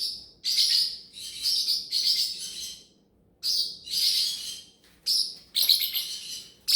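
Baby parrotlets crying, a string of harsh, high chirps in quick bursts with a short pause about three seconds in: the desperate-sounding begging calls of chicks that are being weaned.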